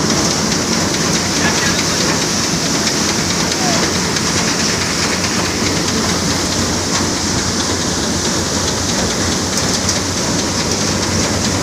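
Paddy thresher driven by a Mahindra Arjun tractor, running steadily as a loud, even, unbroken noise.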